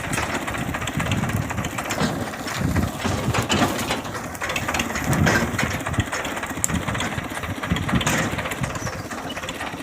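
Tractor engine running, its loudness rising and falling unevenly.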